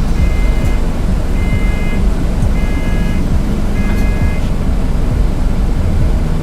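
Volvo B7TL bus engine running with a loud, steady low rumble. Over it an electronic beeper sounds four times, evenly spaced about a second apart, in the first four seconds.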